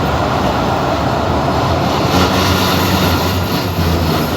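Commuter train running along the track, heard from inside the carriage: a loud, steady running noise with a strong low drone.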